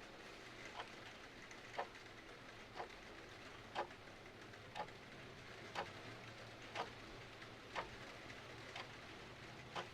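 Mechanical clock ticking once a second, alternating a stronger and a weaker tick, over a steady hiss of rain.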